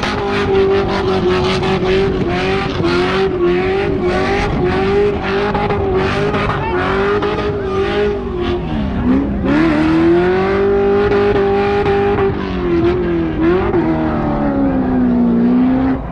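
V8 engine held at high revs during a burnout, its pitch wavering and twice dropping and climbing back as the throttle is worked, over a rapid rough crackle and the hiss of spinning tyres.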